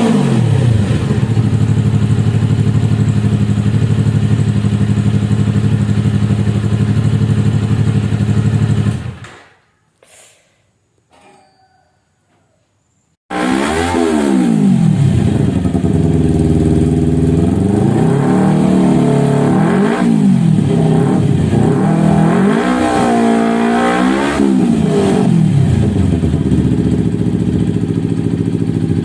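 Small motorcycle engine breathing through an aftermarket Akrapovic Hexa carbon racing silencer: it idles steadily, drops out to near silence for about four seconds, then comes back suddenly and is blipped on the throttle several times before settling back to idle.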